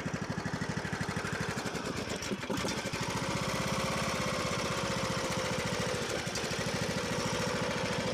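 John Deere LA105 riding lawn tractor engine running steadily, a rapid, even pulsing of firing strokes.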